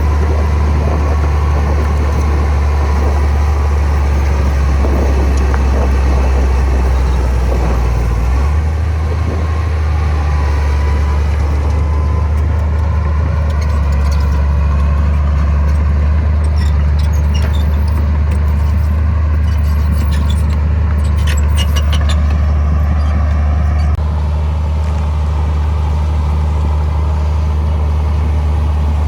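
Heavy diesel engine of earthmoving machinery running steadily under load, its deep note shifting abruptly twice. Scattered metallic clanks and rattles come through in the middle stretch.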